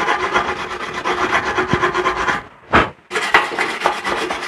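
A hand tool rasping against the metal of an old motorcycle gas tank as the fuel-cap lock is being taken off: a fast, continuous scraping that breaks off briefly with a knock a little past halfway, then starts again.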